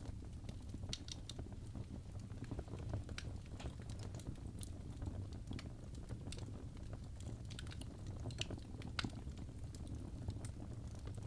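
Fire in a fireplace crackling: irregular sharp pops and snaps, a few louder ones, over a low steady rumble.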